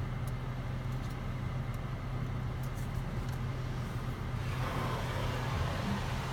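Automatic car wash air dryer heard from inside the car cabin: a steady low hum, joined about four seconds in by a louder rush of blown air as the dryer reaches the car.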